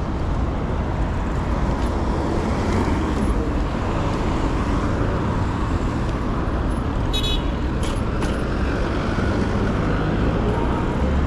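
Steady city road traffic: cars passing with a continuous low rumble of engines and tyres. About seven seconds in there is a brief high squeak.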